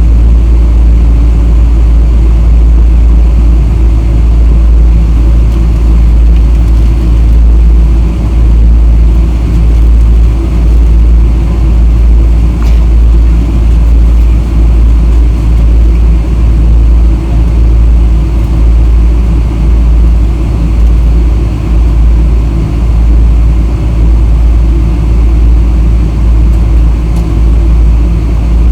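Boeing 777-300 airliner heard while taxiing: a loud, steady deep rumble with an even engine and airflow hum over it, unbroken throughout.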